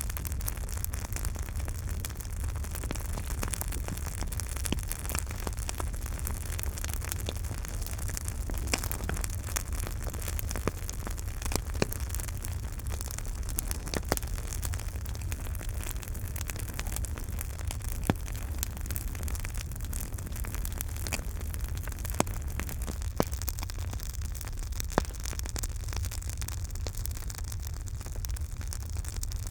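Campfire burning, with a steady low rumble and hiss under frequent sharp crackles and pops, a few of them louder than the rest.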